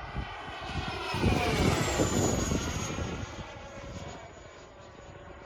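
Electric ducted-fan whine of an FMS BAE Hawk RC model jet flying past, its pitch dropping as it goes by and the sound fading away afterwards. Wind gusts buffet the microphone underneath.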